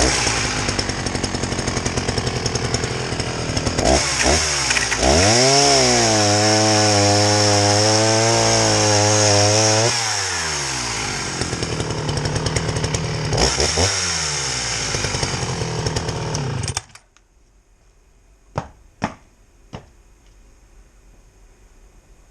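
Old Sachs-Dolmar two-stroke chainsaw running: it idles, is revved up to high speed and held there for about five seconds, drops back to idle, gets one short blip of the throttle, then cuts off suddenly about three-quarters of the way through. A few faint clicks follow.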